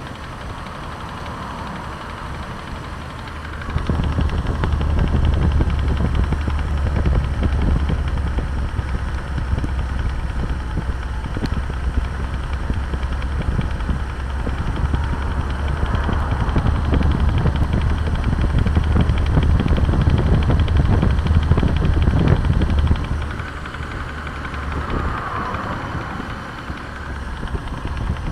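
Toyota Mark II engine running with a knock coming from underneath. It gets louder about four seconds in and drops back a few seconds before the end.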